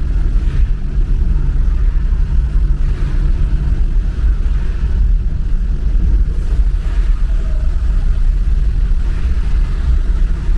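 Car driving on city streets: a steady, low rumble of engine and road noise.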